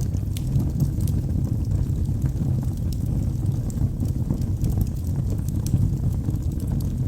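Wood logs burning in a fireplace: a steady low rumble of flames with frequent small, irregular crackles and pops.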